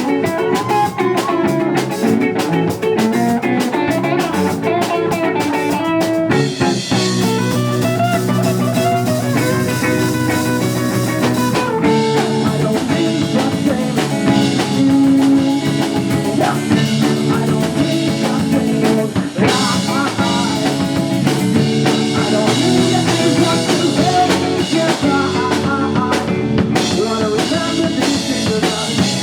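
Live band playing a song with electric guitar, drum kit and singing.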